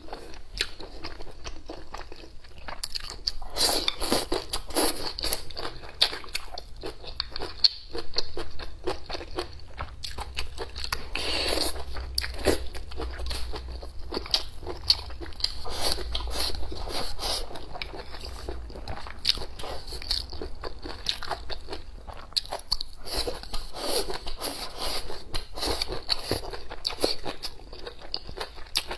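A person chewing and biting food close to the microphone: a continuous run of many small crunching clicks.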